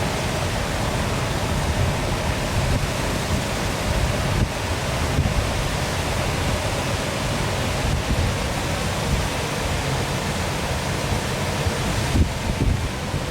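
Waterfall rushing and splashing steadily. Near the end, wind starts to buffet the microphone in short low thumps.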